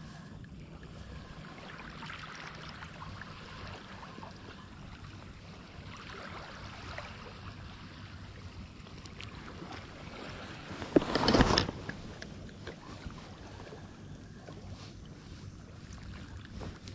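Steady wash of sea water against shore rocks, with wind on the microphone. About eleven seconds in, a loud rush of noise lasting under a second stands out above it.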